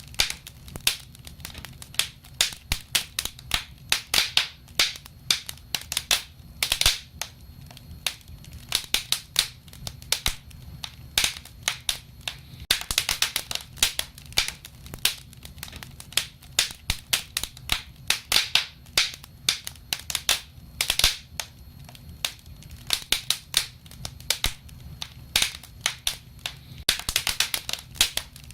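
Wood fire crackling: irregular sharp pops and snaps, several a second and coming in louder clusters, over a low steady rumble.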